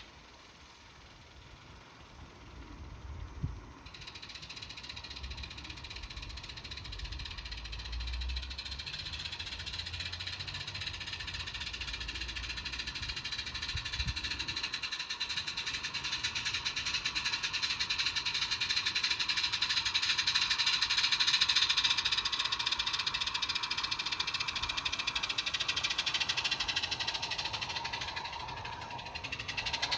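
A 16mm-scale garden railway locomotive running with a fast, fine mechanical chatter. It starts about four seconds in, grows louder as it comes closer, then eases off near the end.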